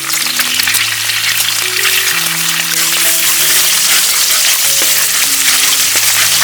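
Food frying and sizzling in a hot pan, a steady dense hiss, with soft background music of long held notes.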